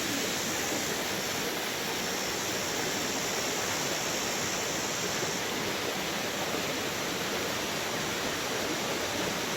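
Mountain valley stream rushing steadily, an even wash of flowing water.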